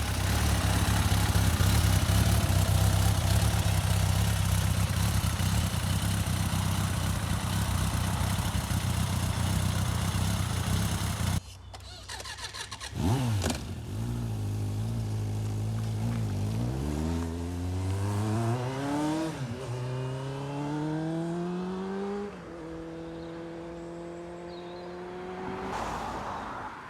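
1989 Suzuki GSX-R750 Slingshot's inline-four engine running with a steady note. After an abrupt cut about eleven seconds in, the bike accelerates through the gears, its pitch climbing and dropping back at each shift.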